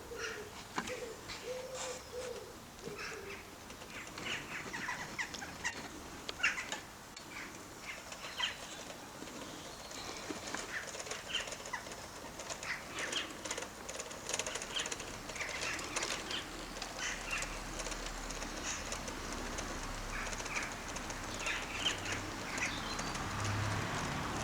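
Birds calling with many short high chirps, and a pigeon cooing a repeated phrase over the first few seconds. A low rumble builds over the last several seconds.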